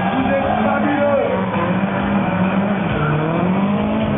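Drift car engines revving, with tyres squealing, over loud music.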